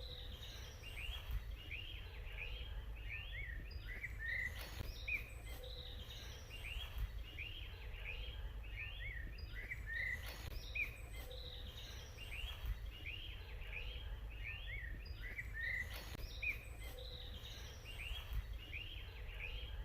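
Small songbirds chirping busily, many short high calls overlapping without pause, over a steady low rumble.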